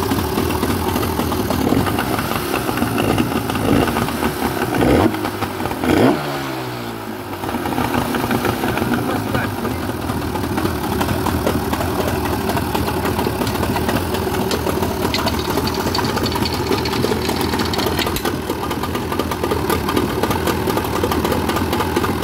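Motorcycle engine running, blipped twice about five and six seconds in, then the revs fall away and it settles back into steady running.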